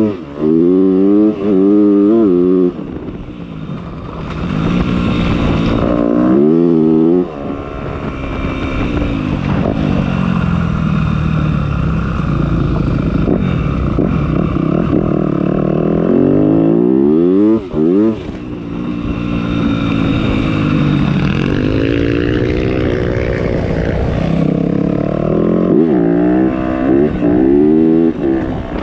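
Motocross bike engine being ridden hard, revving up in several quick rising climbs with short drops as the throttle closes or it shifts, and steadier running in between.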